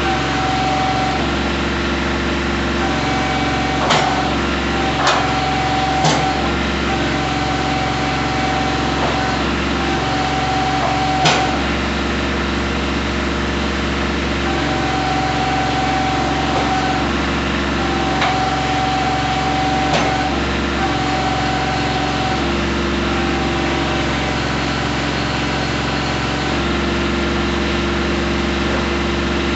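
Kubota B2320's three-cylinder diesel engine running steadily, with a tone that comes and goes every few seconds. A handful of sharp clicks sound in the first two-thirds.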